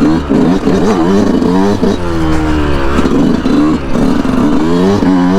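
2019 Yamaha YZ125's single-cylinder two-stroke engine revving hard under acceleration, its pitch climbing and dropping again and again.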